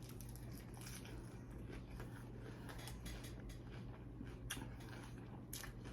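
Chewing and biting into a cheese-filled cheeseburger, with a run of irregular wet mouth clicks and smacks.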